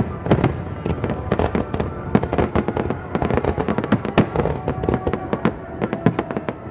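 Fireworks going off in a dense run of sharp bangs and crackles, several a second.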